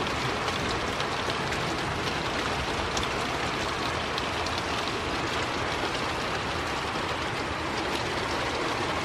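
Thunderstorm rain falling steadily with wind, an even rushing hiss with a few faint drop ticks and no change in level.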